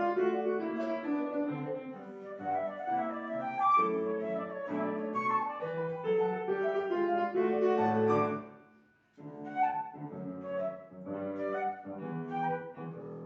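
Flute and piano playing a classical duet. The music dies away about eight and a half seconds in, pauses for a moment, and starts again.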